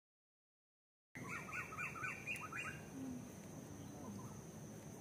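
Silent for about the first second, then outdoor sound cuts in abruptly: a bird calling in a quick run of repeated chirps, followed by a few fainter calls. Underneath are a steady thin high tone and low background noise.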